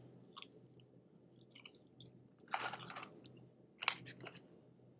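A man chewing a mouthful of french fries close to the microphone: faint mouth sounds, with a brief louder patch about two and a half seconds in and a sharp click near four seconds.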